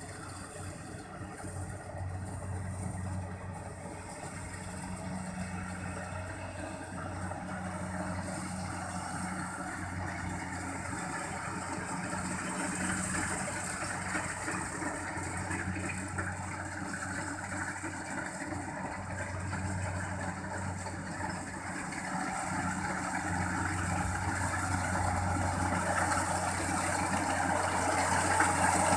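Kubota rice combine harvester running steadily, its engine humming under the noise of the working machine, growing louder toward the end.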